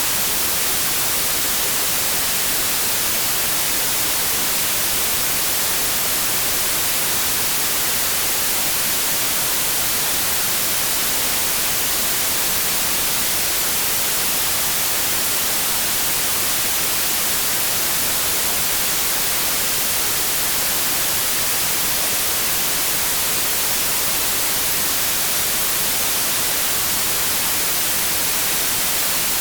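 Steady electronic white noise: an even, unchanging hiss, brightest in the treble.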